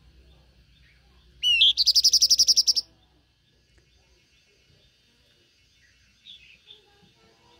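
Blue-winged minla singing: a rising note that runs straight into a fast, high trill of about a dozen notes a second, lasting just over a second. A couple of faint short chirps come near the end.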